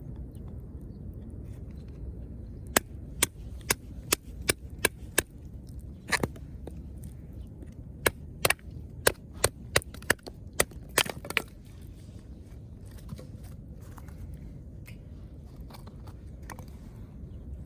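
Dry wood cracking and snapping in two quick runs of sharp, loud cracks, about two a second, over a steady low rumble.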